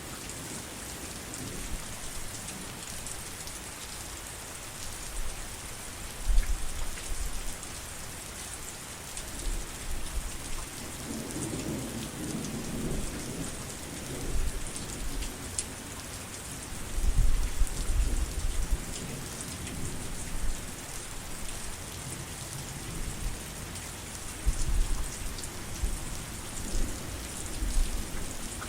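Heavy rain falling steadily, with low rumbles of thunder rolling in several times, the strongest a little past the middle.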